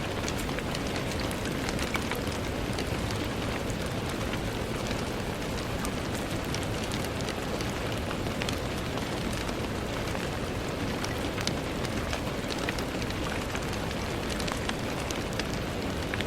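Steady rain falling on a window, an even hiss with many small scattered drop ticks and no letup.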